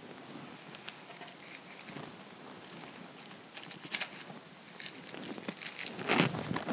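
Dry moss and lichen being handled and pressed into a flower arrangement: soft crinkling and rustling with scattered light clicks, and a few louder rustles in the second half.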